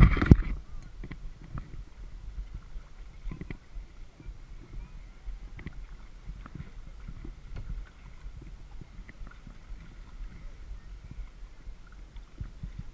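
Kayak paddling: the paddle dipping and splashing in the lake and water lapping and knocking against the hull, over a steady low rumble. A louder knock or splash comes right at the start.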